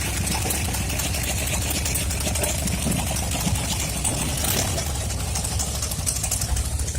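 Car engine idling steadily with a fast, even beat.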